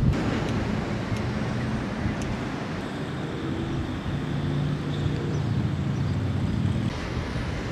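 Steady engine drone with wind on the microphone.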